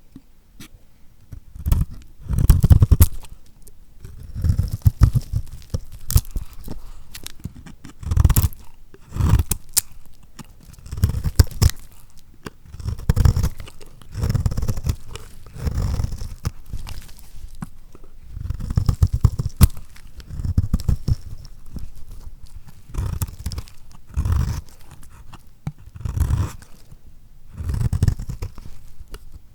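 A knife cutting through lacquered soap, each cut a crackling crunch lasting about a second. The cuts come one after another, roughly every one to two seconds.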